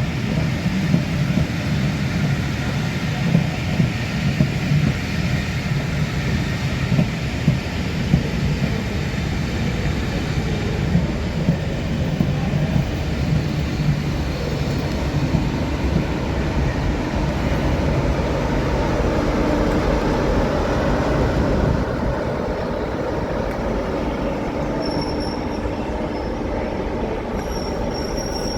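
A train running past on the rails: a steady rumble of wheels, with repeated knocks over rail joints in the first half. Near the end a thin, high wheel squeal comes in.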